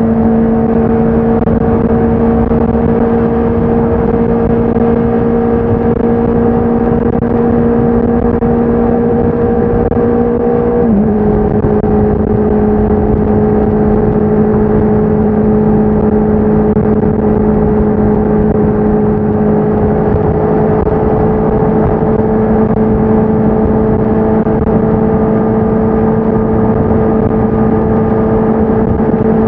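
Honda CBR650R's inline-four engine and exhaust running at steady revs under way, an even hum that steps down slightly in pitch about eleven seconds in and then holds.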